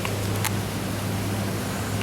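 Steady low hum over an even hiss, with a brief click about half a second in.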